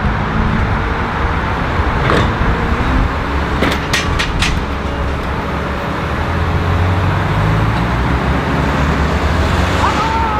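A large vehicle's engine running steadily with traffic noise, and a few sharp clicks about two and four seconds in.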